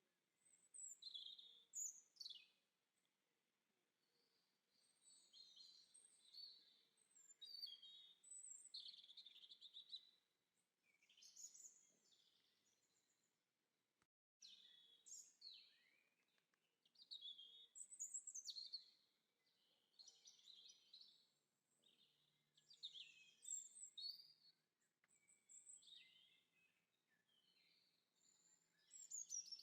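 Faint birdsong: phrases of high chirps and quick sweeping trills, coming every second or two, with a brief sudden gap about halfway through.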